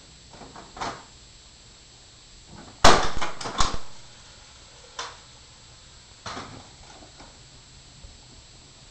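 Hard objects knocking and clattering: a quick cluster of loud knocks about three seconds in, then a single knock and a short rattle a few seconds later.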